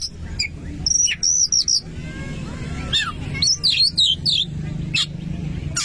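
Oriental magpie-robin (kacer) singing: a run of clear whistled notes about a second in, then a quick, varied phrase of rising and falling notes around the middle, over a steady low hum.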